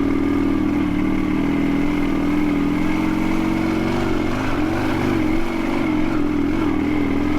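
Dnepr MT-16 sidecar motorcycle's flat-twin engine running under load on a steep rough climb, holding steady revs for a few seconds and then rising and falling unevenly.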